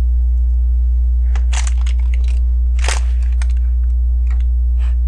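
Plastic LEGO pieces clicking and rattling several times as they are handled and pressed together, over a loud, steady, low electrical hum.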